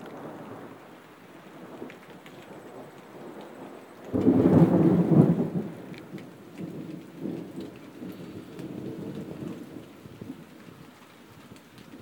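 Heavy rain falling during a severe thunderstorm, with a sudden loud clap of thunder about four seconds in that rumbles on and fades over the following seconds.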